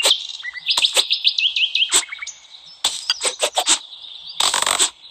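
Sharp, crisp cutting strokes, several in quick succession and a longer crunchy one near the end, with a bird chirping a fast run of rising notes about a second in.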